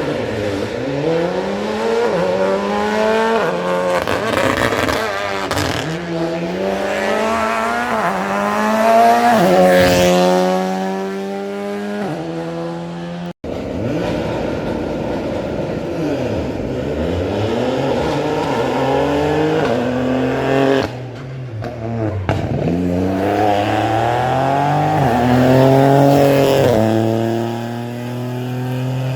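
Rally car engine under hard acceleration, its pitch climbing and then dropping sharply at each gear change, several times in a row. About halfway through the sound cuts abruptly and another rally car is heard doing the same.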